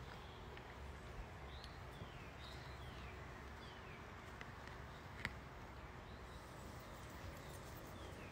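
A bird giving a run of short chirps that fall in pitch, over a faint low hum, with one sharp click about five seconds in.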